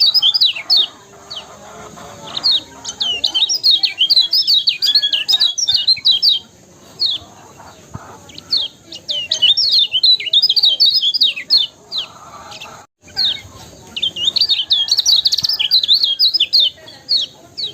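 Kecial kuning white-eyes singing rapid runs of high, sharply falling chirps, in bouts of a few seconds separated by short pauses.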